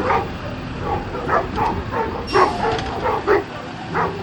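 A dog barking and yipping in short, quick calls, several a second, over the steady low rumble of a garbage truck's engine.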